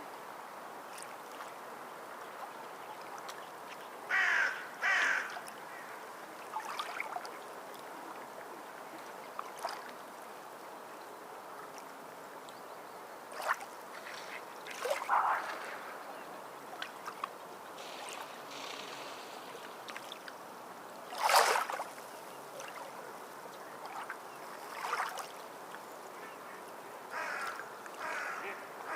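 Short, harsh bird calls, singly or in pairs every few seconds, the loudest about two-thirds of the way through, over a steady wash of water noise.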